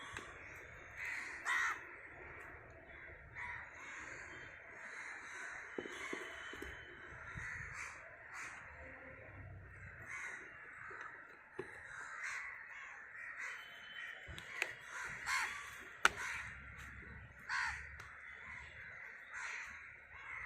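Birds calling repeatedly in the background, short harsh calls scattered throughout, with one sharp click about three-quarters of the way through.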